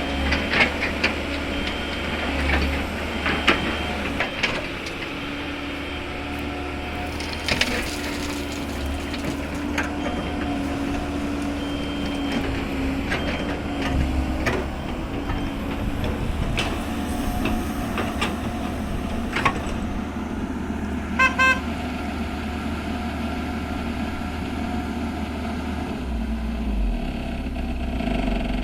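Diesel engine of a Komatsu PC210-10 excavator running steadily while it loads crushed stone into a truck, with scattered knocks and clatter. About three quarters of the way through, a quick run of short horn beeps.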